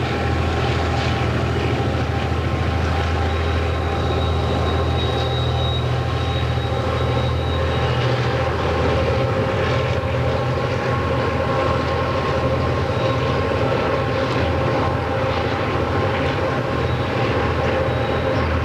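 Diesel locomotive engines running steadily as a train passes, with a constant low drone. A thin high tone sounds for a few seconds starting about four seconds in.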